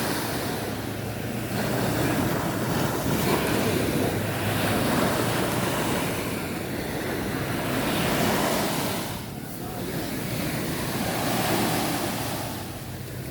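Sea waves washing onto the shore, a steady rush of surf that swells and eases every few seconds, with wind buffeting the microphone.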